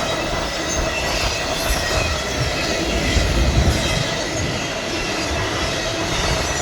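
Freight train rolling past: a steady rumble of steel wheels on rail with faint thin high tones over it. Wind buffets the microphone.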